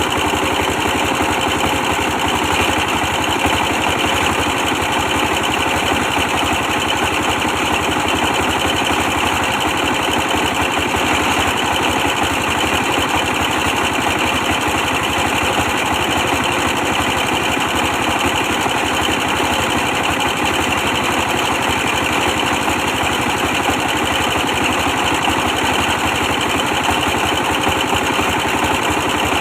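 Old 24 hp diesel engine running steadily, powering a brick press.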